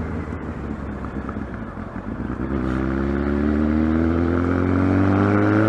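Kawasaki ZX-12R inline-four engine running at a low, steady note, then about halfway through pulling with a slowly rising pitch as it accelerates.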